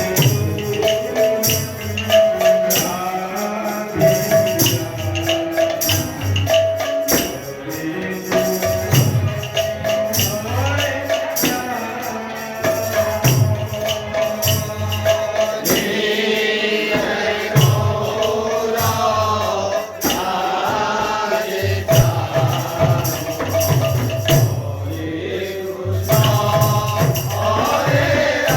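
Kirtan devotional music: voices singing and chanting over drum beats and steady jingling percussion strokes.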